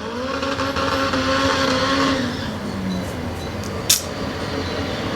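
Car engine running hard in a race at a steady pitch, easing a little lower about two and a half seconds in. A single sharp click comes near four seconds in.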